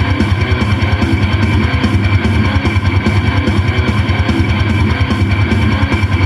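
Rock music with electric guitar and a fast, steady drumbeat, played loud through a car stereo: an Alpine iDA-X311 digital media receiver driving SPL Dynamics speakers.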